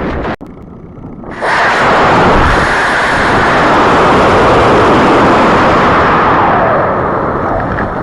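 Model rocket motor igniting and burning: a loud, steady rushing roar starts suddenly about a second and a half in, holds for about five seconds, then thins near the end.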